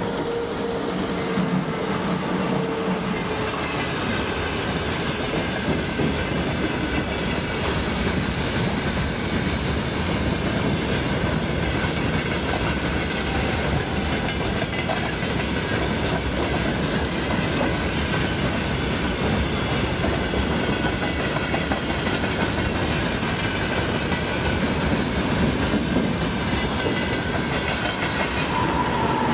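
Passenger train hauled by an ЭП2К electric locomotive passing at speed, with a steady rolling din of steel wheels on the rails throughout.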